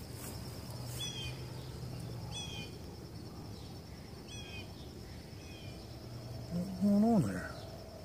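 A small bird gives about four short chirps, each a quick falling double note, over a steady high insect drone. A man's voice breaks in briefly near the end, the loudest sound.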